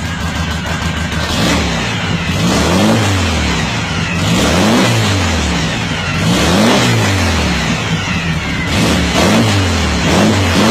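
Car engine revved repeatedly through its exhaust: a brief idle, then blips of the throttle about every two seconds, each rising in pitch and falling back.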